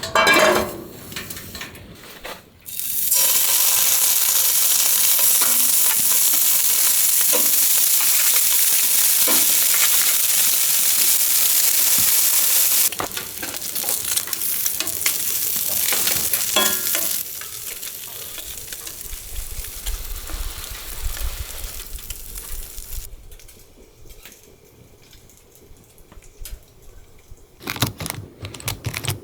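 Food sizzling in a hot pan, starting suddenly about three seconds in. It is loud for about ten seconds, then drops in two steps and has died away well before the end, with a few light clicks around it.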